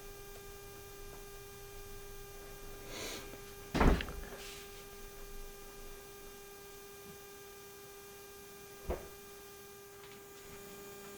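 Steady electrical hum with a single heavy thump about four seconds in and a smaller, sharper knock near nine seconds.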